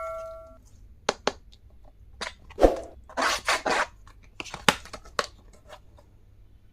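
Clicks and brief crinkling rustles of stationery items and their plastic packaging being handled, with a metallic ring fading away at the start.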